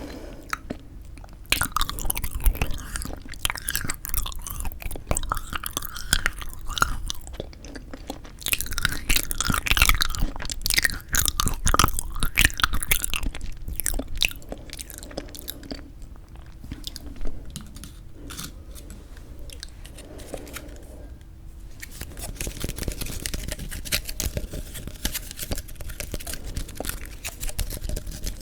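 Close-miked chewing and biting of frozen yanggaeng (sweet red bean jelly), with sticky, crunchy mouth sounds. They are busiest and loudest in the first half and quieter past the middle.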